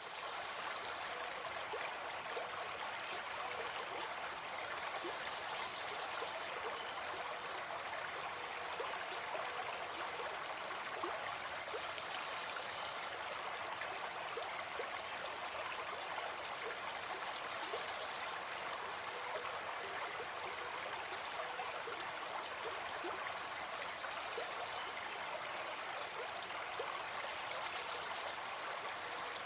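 Gentle forest stream flowing, a steady babbling of water over stones.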